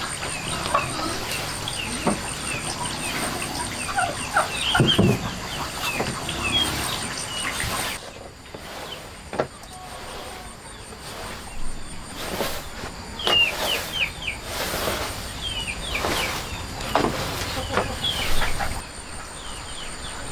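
Farmyard poultry calling in a string of short, falling calls, over a steady high whine that stops about eight seconds in.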